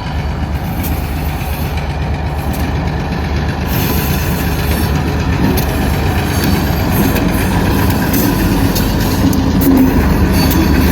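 Freight train led by an EMD MP15 diesel switcher passing close by: a steady, low diesel engine rumble mixed with rolling-train noise, growing gradually louder.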